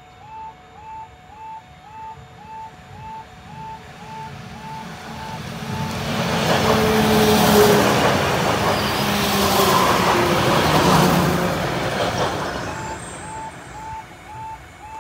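A two-car Northern Class 195 diesel multiple unit passes close by. Its engine and wheels on the rails build up, are loudest from about seven to eleven seconds in, then fade. Under it, a miniature-warning-light level crossing's audible alarm sounds a rising beep about twice a second, signalling a train at the crossing; the train drowns it in the middle.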